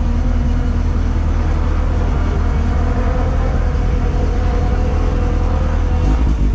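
A motor vehicle's engine running steadily, a constant deep rumble with a steady hum above it.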